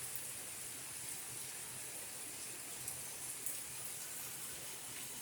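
Heavy rain pouring down in a steady hiss, with a few faint drop ticks.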